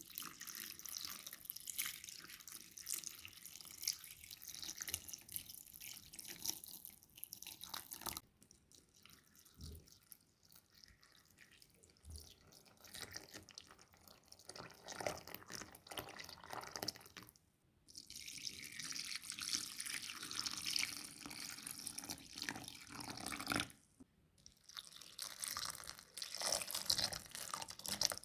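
Water running from a kitchen tap and splashing in the sink, in a few short clips joined by hard cuts.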